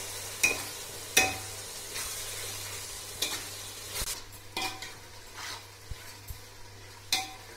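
Onion, tomato and herb masala frying in ghee and oil in a metal pot, sizzling steadily while a ladle stirs it. The ladle knocks and scrapes against the pot about six times.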